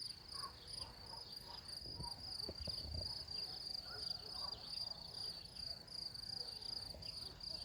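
Cricket chirping steadily, a high, even pulsing call repeated a few times a second.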